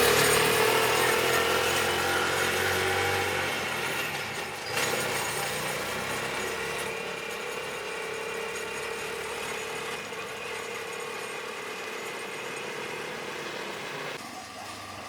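A small engine running at a steady speed, its hum slowly fading, with a brief change about five seconds in and a sudden cut near the end.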